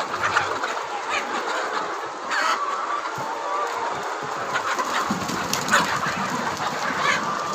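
A flock of Rhode Island Red chickens clucking and calling over one another, with many short calls overlapping throughout.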